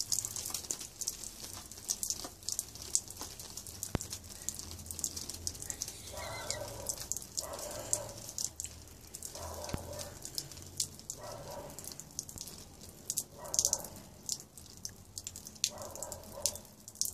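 Water jetting from the punched holes of a hanging soda-can hero engine and spattering down as a continuous patter of drops.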